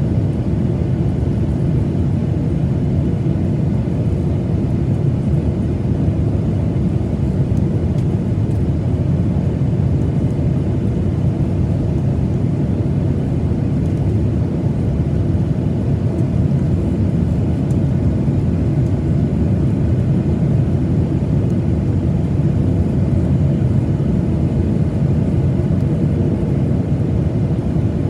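Steady low rumble of a Boeing 737-900ER's engines and airflow heard inside the passenger cabin, even and unchanging throughout.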